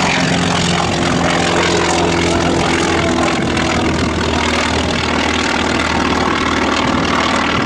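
Grumman FM-2 Wildcat's Wright R-1820 nine-cylinder radial engine running with its propeller, a loud steady drone.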